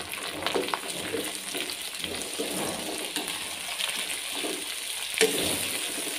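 Tomatoes, onions and garlic sizzling in hot oil in a non-stick wok while a spatula stirs them, scraping and clicking against the pan, with one sharper knock about five seconds in.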